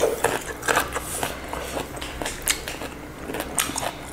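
Close-miked eating: irregular wet clicks and smacks of chewing, several short ones a second.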